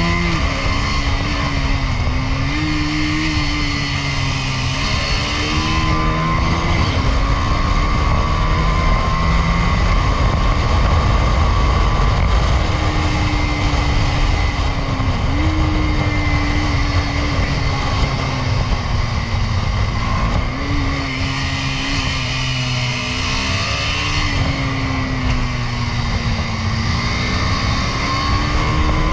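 KTM Duke 250 single-cylinder motorcycle engine under way, its note repeatedly climbing and then dropping back as the bike accelerates and shifts gear, over a steady low rush.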